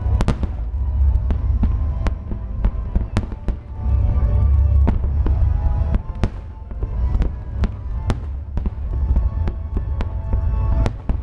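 Aerial firework display: shells bursting in a rapid, irregular series of sharp bangs over a continuous low rumble.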